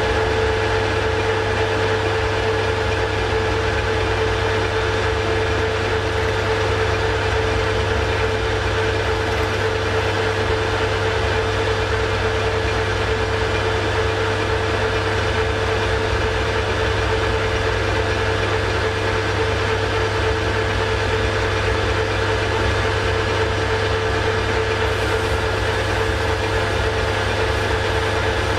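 Metal lathe running steadily at about 1000 RPM, a constant whine with a low hum beneath it.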